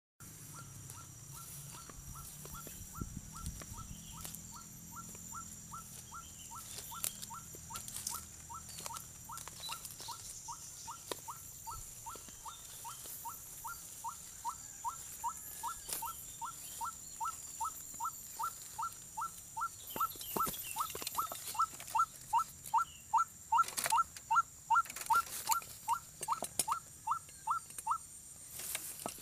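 White-breasted waterhen calling: a monotonous run of short, falling notes, about two a second, growing louder in the second half and stopping near the end. A few knocks sound among the later calls.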